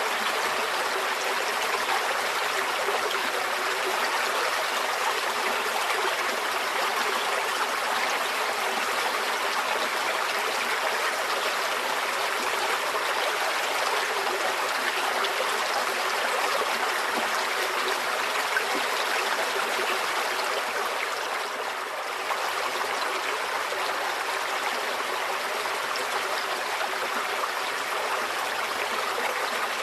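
Shallow stream flowing steadily, a continuous rushing and trickling of water, dipping slightly in level about two-thirds of the way through.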